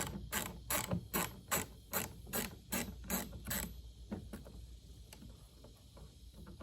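Hand ratchet wrench clicking in a steady run of about a dozen strokes, a little under three a second, as a fastener is turned under the car. The clicks stop a little past halfway, and only a few faint ones follow.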